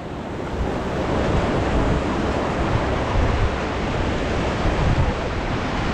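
Whitewater rapids rushing steadily around a paddled raft, with wind buffeting the microphone; the rush grows louder over the first second.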